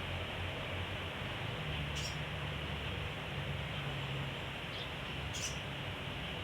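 A few brief, high squeaks from a small squirrel (sogon), about two seconds in and twice more near five seconds, over a steady hiss.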